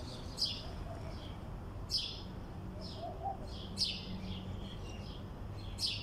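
Bird chirping: short, high chirps that drop in pitch, repeated every second or two.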